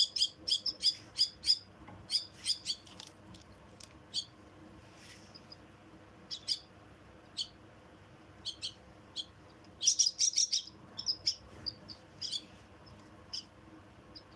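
Myna chicks giving short, shrill begging chirps in quick runs, with a dense flurry at the start and another about ten seconds in, and sparser single chirps between.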